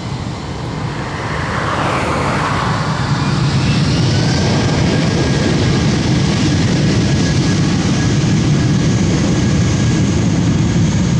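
Jet engines of an Airbus A340-600, four Rolls-Royce Trent 500s at takeoff power, building over the first few seconds to a loud, steady rumble with a faint high whine.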